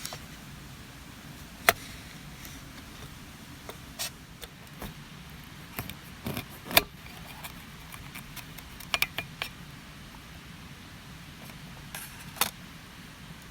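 Scattered sharp metallic clinks and taps of camp cookware being handled, over the steady low rush of a nearby stream.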